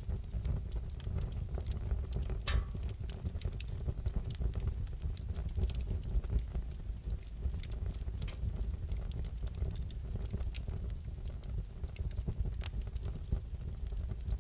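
Wood fire crackling in a fireplace: irregular sharp pops and ticks over a steady low rumble, with one bigger pop about two and a half seconds in.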